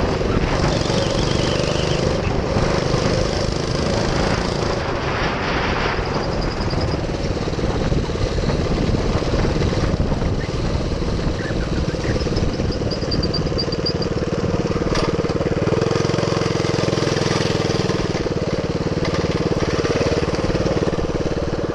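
Minibike's GX200 single-cylinder four-stroke engine running steadily.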